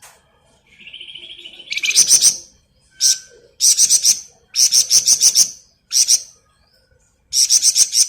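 A flamboyan cage bird singing a rapid, rattling 'ngebren' trill. About a second in there is a buzzy note, then repeated bursts of fast, high chattering notes with short gaps between them.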